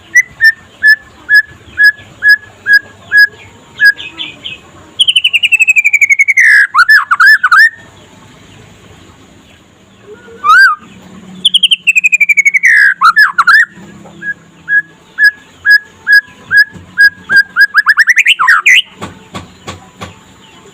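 Young white-rumped shama singing loudly: runs of clear whistled notes repeated about every half second, broken by long downward-sweeping whistles and fast trills, with a run of notes that speeds up and rises near the end.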